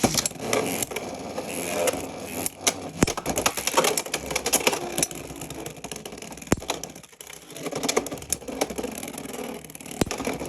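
Two Beyblade X spinning tops launched into a plastic stadium, a loud burst at the very start. They then spin and rattle with many sharp clacks as they collide, easing briefly in the middle before more hits.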